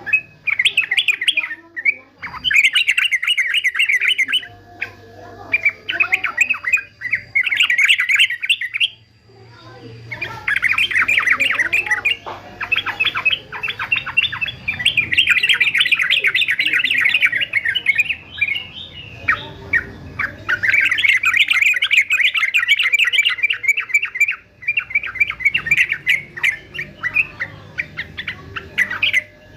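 Male yellow-vented bulbul calling in rapid, chattering phrases. Runs of one to several seconds are broken by short pauses, with the longest stretches near the middle.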